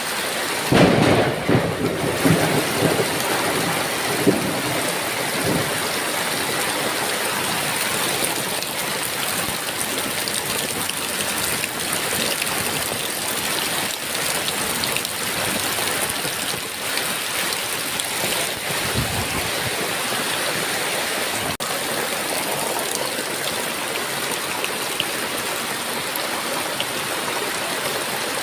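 Heavy rain falling steadily, with a clap of thunder about a second in that rumbles away over the next few seconds.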